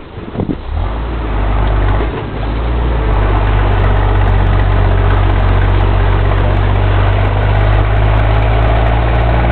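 Scania 124 truck's six-cylinder diesel engine pulling under load. The engine note builds over the first couple of seconds, dips briefly about two seconds in, then runs steady and loud.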